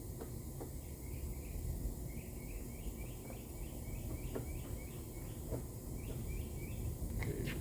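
Outdoor background noise with a steady low rumble, over which a bird chirps repeatedly, short notes about two a second for several seconds, with a few faint clicks.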